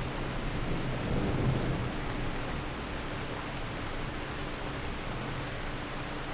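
Steady rain hiss with a low thunder rumble that swells briefly about a second in and fades.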